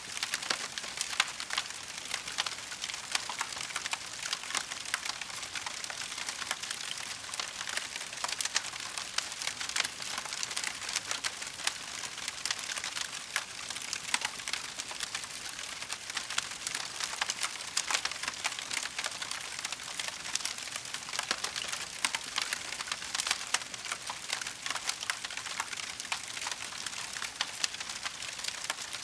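Wood fire crackling: a dense, continuous run of small pops and snaps over a steady hiss.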